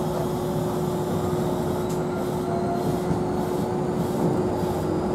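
Running noise inside a moving Kintetsu electric train car: a steady rumble with a constant hum underneath.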